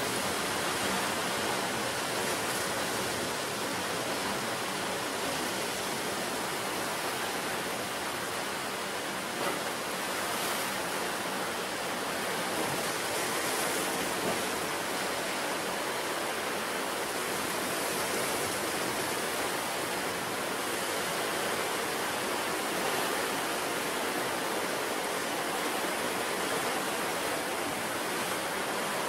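Ocean surf breaking on the shore, a steady, unbroken wash of sea noise.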